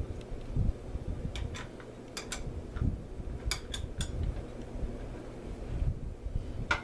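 Tightening the handle nut on a Daiwa Great Lakes 47LC baitcasting reel: a few sharp metal clicks and taps of tool on reel parts in small groups, over dull handling bumps.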